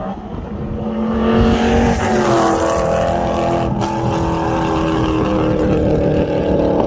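Ford 4.6-litre three-valve V8 accelerating hard toward the camera on a fly-by, its note climbing in pitch and growing louder. Just before the middle the sound breaks to another pass, the engine held loud and steady.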